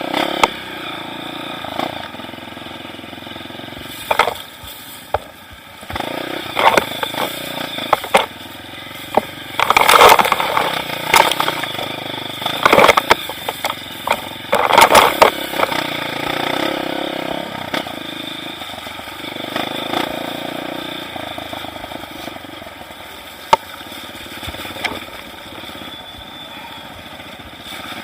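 Trail motorcycle engine running at low speed over rough ground, with many sharp knocks and clatter, most dense about a third and a half of the way in.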